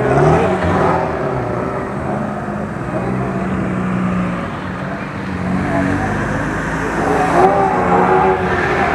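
Car engine being revved: its pitch climbs right at the start, then it holds at a fairly steady high speed, wavering a little near the end.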